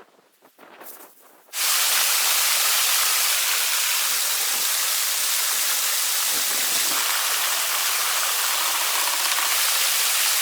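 Faint rustling, then about a second and a half in, the steady rushing of a waterfall cuts in abruptly and stays loud and even.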